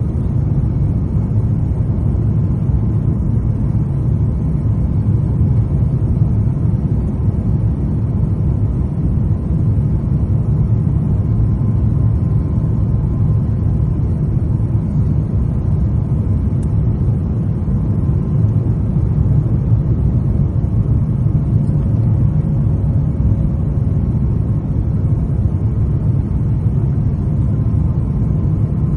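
Steady low rumble of engine and airflow noise inside the cabin of an Airbus A350-900 airliner, even in level throughout.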